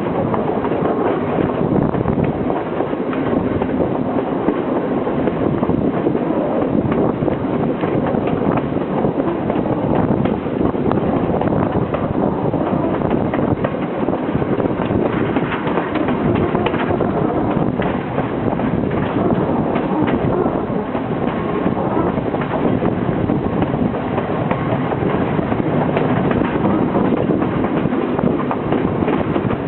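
Passenger train running on rails, heard from aboard: a steady rumble of the carriage with scattered clicks of the wheels over the track.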